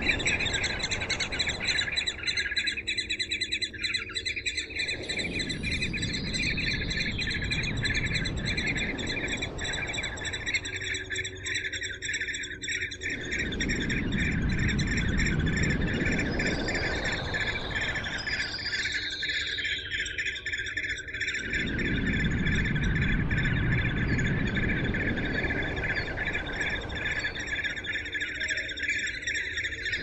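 Birds chirping in a fast, unbroken high chatter, with a low rushing background noise that drops away and returns every eight or nine seconds.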